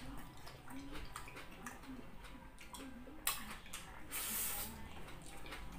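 Close-up mouth sounds of eating by hand: wet chewing and lip smacks on beef patty and rice. A sharp click comes a little past three seconds, and a brief hissing suck about four seconds in, as a handful of rice goes into the mouth.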